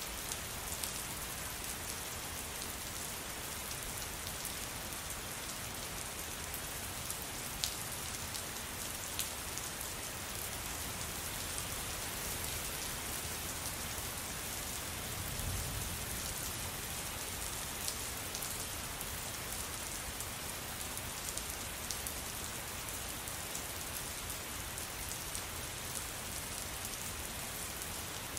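Steady rain falling, with now and then a single louder drop ticking out of the hiss, and a brief low rumble about halfway through.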